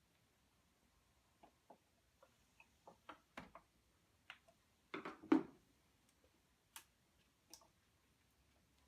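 Irregular light clicks and knocks of tools and parts being handled, with the loudest cluster about five seconds in.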